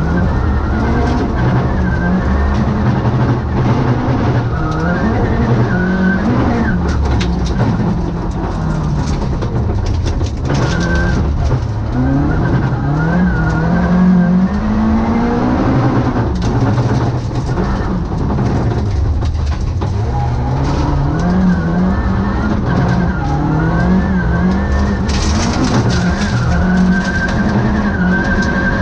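Volvo 940 rally car's engine at full stage pace, heard from inside the cockpit: the pitch climbs steeply and drops back at each gearshift, again and again as the car accelerates, brakes and turns.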